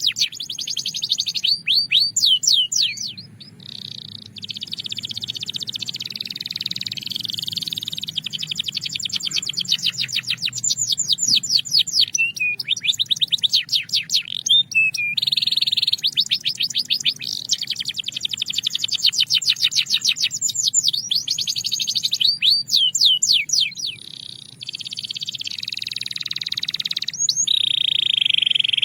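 Belgian canary singing a long continuous song of fast trills and rolling tours, repeated notes rattling off several times a second, broken by two short pauses.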